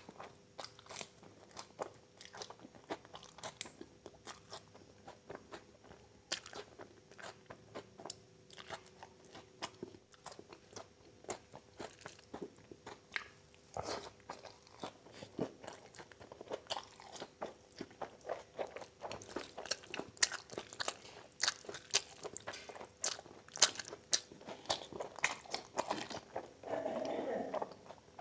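Close-up chewing and crunching, with many quick wet mouth clicks and smacks, as a man eats fresh coriander and then a mouthful of chow mein. Near the end there is a steadier, louder stretch of mouth noise lasting about a second and a half.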